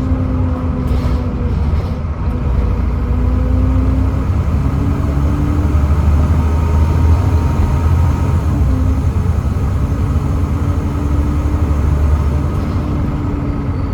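Volvo B7TL double-decker bus under way, its Volvo D7C 7.3-litre diesel engine running with a deep rumble and a whining tone that climbs and drops back several times, as through changes of the ZF Ecomat six-speed automatic gearbox.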